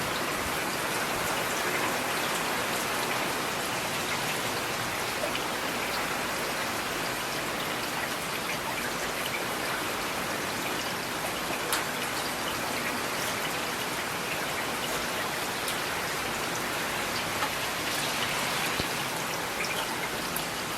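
Steady rain falling on hard surfaces, an even hiss with scattered individual drops ticking.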